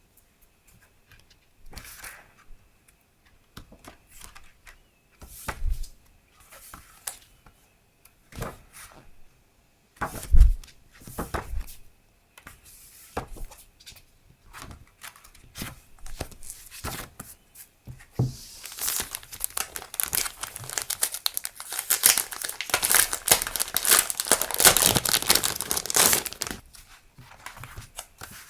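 Scattered taps and rustles of stationery being handled, then, about two-thirds of the way in, several seconds of loud, continuous crinkling and tearing of packaging that die down near the end.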